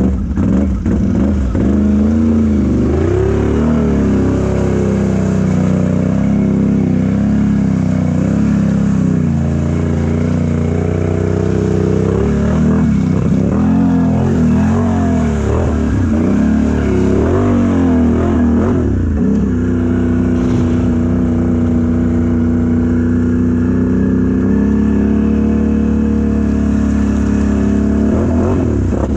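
Mega truck engine revving hard, its pitch rising and falling over and over, then holding a steadier high run for the last several seconds.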